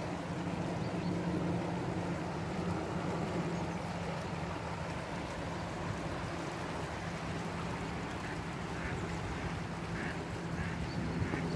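Ducks quacking, several short calls in the second half, over a steady rushing background.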